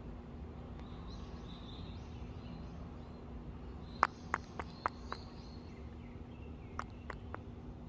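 Steady outdoor background noise with faint high chirps. A quick run of five sharp clicks comes about four seconds in, and two more near the end.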